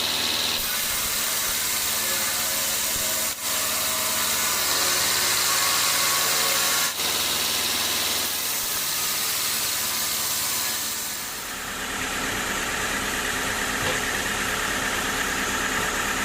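Engine-driven sawmill machinery running steadily, with a strong hiss over it and two very short breaks. About eleven seconds in the sound changes to a lower machine running with a fast, even buzz.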